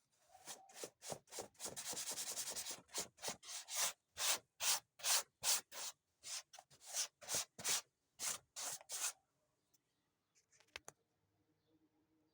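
Hand sanding on wood: a fast run of back-and-forth strokes, then separate strokes about three a second, which stop about nine seconds in.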